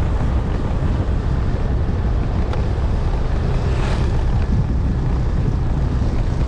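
Steady wind rush buffeting the microphone of a moving motor scooter, with road noise underneath.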